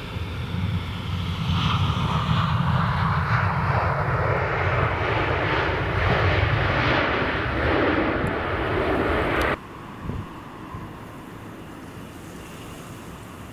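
Airliner's engines passing close, growing louder over the first couple of seconds and holding a heavy rumble with a rushing roar on top. The sound cuts off suddenly about nine and a half seconds in, leaving a quieter steady rush of wind.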